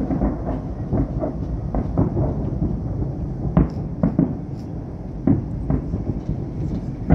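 Distant fireworks bursting over a city: a steady run of booms that roll into one another as a low rumble, with a few sharper reports about three and a half, four and five seconds in.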